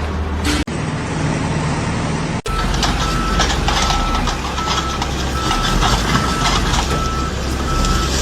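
Heavy vehicle engine running with a low hum. After a sudden cut about two and a half seconds in, a reversing alarm beeps repeatedly at a steady pace over engine and site noise.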